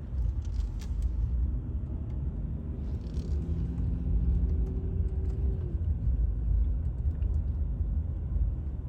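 Car driving slowly, a steady low rumble of engine and tyres on the road, with a faint steady hum in the middle of the stretch.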